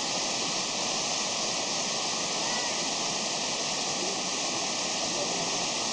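Waterfall pouring, a steady rushing hiss of falling water.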